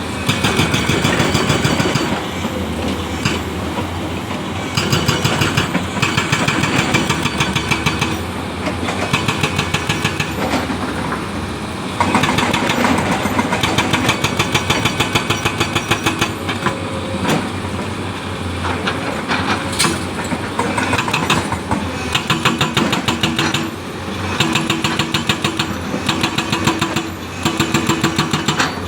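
Excavator's diesel engine running with a fast, even pulsing, rising and easing off in turns every few seconds as the machine works.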